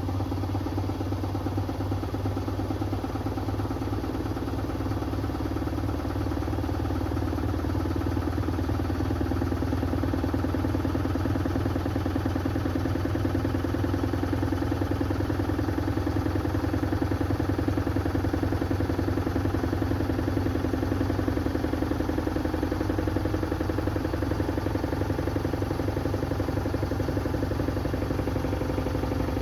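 Hoover Axi 10kg washing machine spinning: a steady motor hum and drum whir, its pitch creeping slightly upward over the stretch, typical of the final spin near the end of the cycle.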